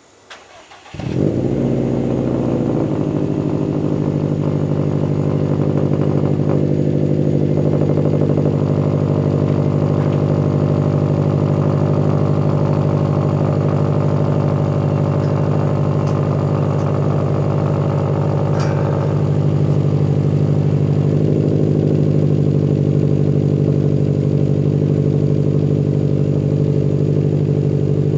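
Subaru WRX STI's turbocharged 2.5-litre flat-four starting from cold through a catback exhaust with 4-inch mufflers: it cranks briefly, catches about a second in with a short flare, then settles into a steady fast cold-start idle.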